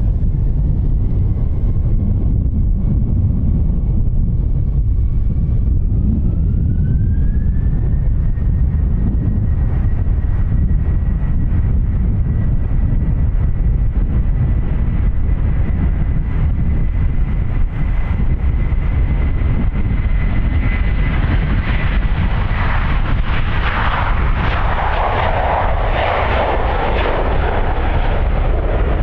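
Airbus A321 jet engines spooling up to takeoff thrust: the whine climbs in pitch about five to eight seconds in and then holds steady over a heavy low rumble. Near the end a broad roar swells as the jet passes on its takeoff run.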